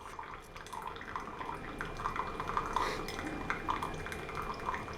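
Hamilton Beach FlexBrew single-serve K-cup brewer dispensing into a cup: hot brewed liquid trickling and dripping steadily, many small irregular drips, with a faint steady tone underneath.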